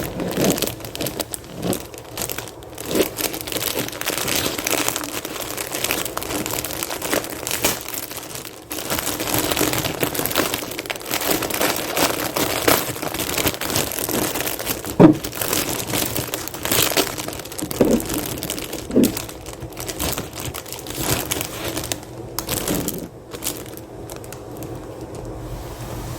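Close-miked chewing of mushroom and cheese pizza: a dense run of crackly crunches and mouth clicks, with one sharper crunch about halfway.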